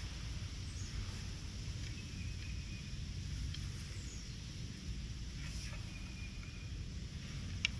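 Outdoor ambience: a steady low rumble with faint, distant bird calls, and a brief click near the end.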